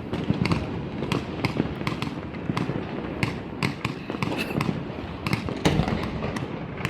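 Fireworks display: a rapid, irregular string of sharp cracks and pops, several a second, over a continuous low rumble of bursting shells.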